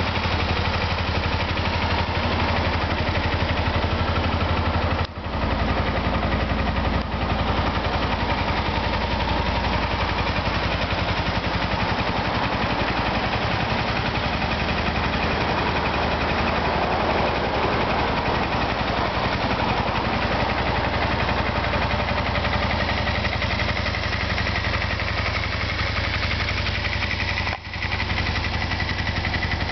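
Kawasaki Eliminator 250V motorcycle's V-twin engine running steadily at idle. The sound drops out briefly about five seconds in and again near the end.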